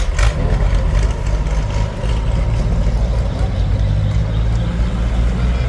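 Tractor engines running with a steady low rumble.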